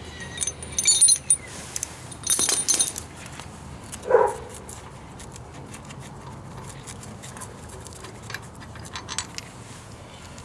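Loose bolts and steel hand tools clinking and jingling in two short bouts, about a second in and about two and a half seconds in, while crank pulley bolts are taken off an engine. A dog gives one short bark about four seconds in, followed by a few faint clicks.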